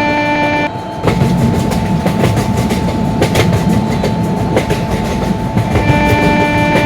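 Passing train at speed: a loud rumble of wheels with rapid, irregular clicks over the rail joints. A steady music track cuts out a little under a second in and comes back near the end.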